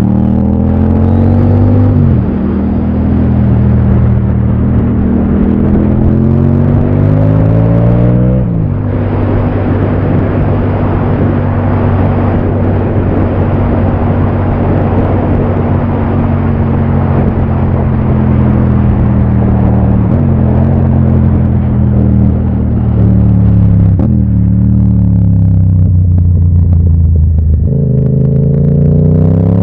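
Yamaha MT-07 parallel-twin engine under way, revving up through the gears: the pitch climbs, drops sharply at upshifts about two seconds in and again around eight seconds, then holds steady. Later it eases off in a few steps before accelerating again near the end, with steady wind and road rush under it.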